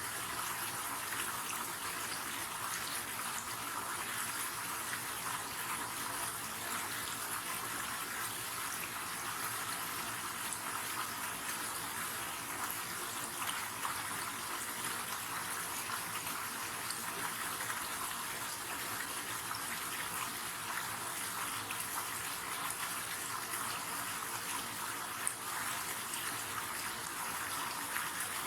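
River water flowing steadily: a continuous, even rush of water, mostly high hiss with little low rumble.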